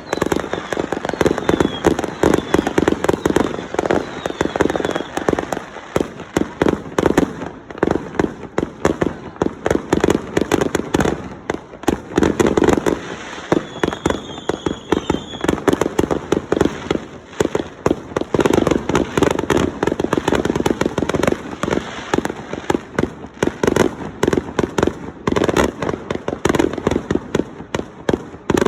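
Fireworks going off without a break: dense, rapid bangs and crackles, with a short high whistling tone about halfway through.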